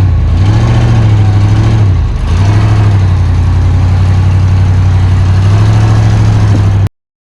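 An engine running steadily close by. Its pitch dips briefly about two seconds in, then picks up again. It cuts off abruptly near the end.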